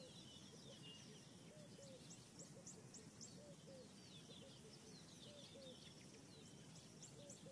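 Faint natural ambience: birds calling in short, repeated chirps and whistles over a soft steady hiss.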